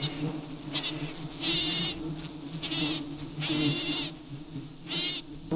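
Steady hum of a swarm of wild honeybees. Over it come about five short, wavering, high-pitched bleat-like calls, a second or so apart.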